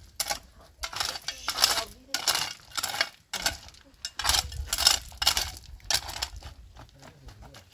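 Dishes and pots being scraped or scrubbed in a run of short strokes, about one or two a second, fading near the end.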